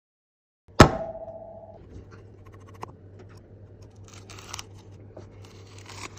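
A sharp knock about a second in with a brief ringing tone after it, then light scratching, scraping and small clicks of hand work on an iPad during repair, over a steady low electrical hum.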